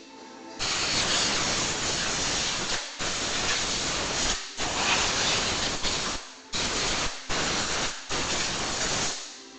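Compressed-air blow gun blasting water out of a freshly washed engine bay: loud hissing in about six bursts of one to two seconds, with short breaks between them.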